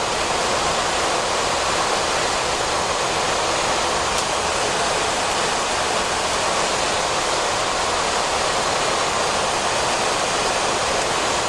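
Steady rushing noise on the flight deck of a Boeing 737-400 in flight: air streaming past the cockpit with the engines' hum underneath, an even hiss with no change in level.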